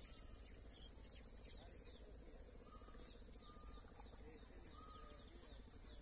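Faint outdoor birdsong: scattered short chirps and a few brief whistled notes, over a steady high hiss.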